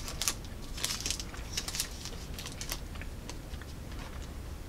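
Close-up chewing of a bite of a chocolate peppermint Luna Bar Mini, a crunchy-and-soft bar: faint, irregular crunchy clicks, thicker in the first couple of seconds and then thinning out.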